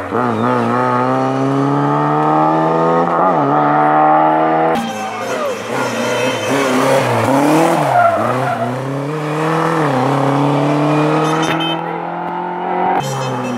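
Lada saloon rally car's four-cylinder engine revving hard at full throttle. Its pitch climbs and drops at a gear change about three seconds in, then climbs again. After an abrupt cut about five seconds in, the engine note rises and falls unevenly on and off the throttle, and it cuts off again near the end.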